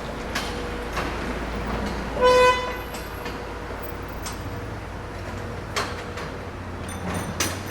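City street traffic with a steady low rumble and one short, loud vehicle horn honk about two seconds in. Scattered sharp clicks and a faint high-pitched beeping near the end.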